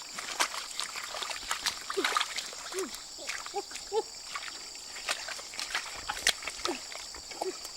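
Water splashing and trickling, with many small plops and clicks scattered through, over a steady high-pitched insect drone.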